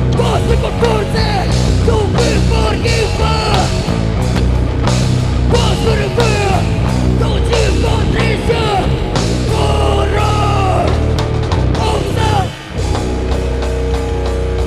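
Loud heavy rock band playing live, with a brief drop in the music about three-quarters of the way through.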